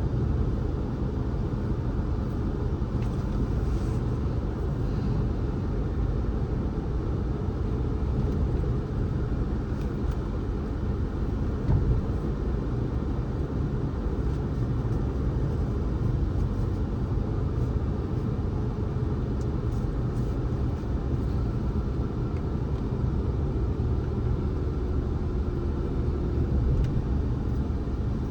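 A car being driven on the road: steady low rumble of engine and tyre noise, with a single brief bump about twelve seconds in.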